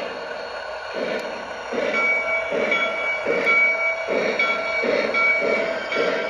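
O gauge model steam locomotive's sound system chuffing in a steady rhythm of a little more than one chuff a second, the beat quickening slightly as the train gets under way, with a faint steady whine underneath.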